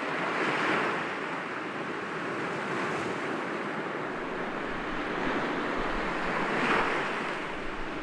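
Sea waves breaking gently against rocks, a steady wash of surf with two louder breaks, about half a second in and again near the end.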